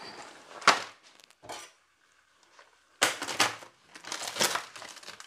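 Kitchen handling noises: a sharp knock about a second in and a smaller one after it. Then, from about halfway, a couple of seconds of crinkling and rustling.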